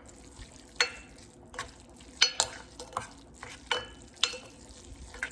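A utensil stirring instant ramen noodles with their sauce in a pot, clinking and scraping against the pot in irregular strokes about once or twice a second.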